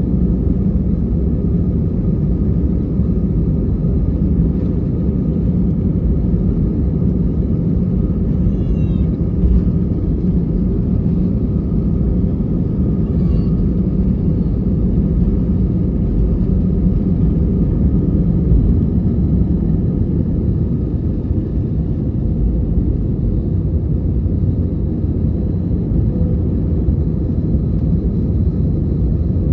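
Steady, loud low rumble inside the cabin of an Airbus A321 airliner, from its jet engines and the airflow around the fuselage.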